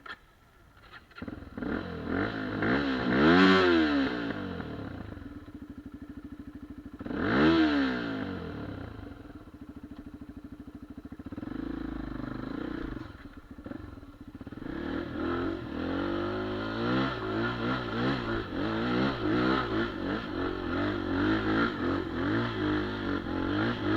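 Geon Dakar 250 enduro motorcycle engine revving: two sharp blips about three and seven seconds in, then running lower for a few seconds, then pulling hard with the revs wavering up and down, as on a hill climb.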